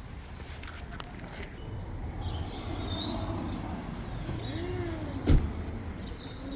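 Outdoor street ambience: a steady low rumble of distant traffic with birds chirping, and a single sharp knock about five seconds in.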